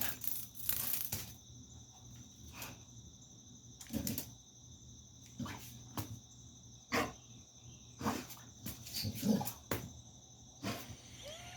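A dog playing with a cicada: scattered short snuffles and scuffles every second or two, over a faint steady high-pitched hum.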